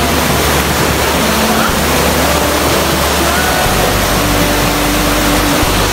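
Rushing water, a steady full hiss, with background music playing over it.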